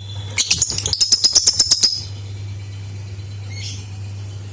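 Lovebird giving its fast chattering 'ngekek' trill: a quick run of shrill chirps, about ten a second, lasting a second and a half, then a shorter, fainter call near the end. A steady low hum runs underneath.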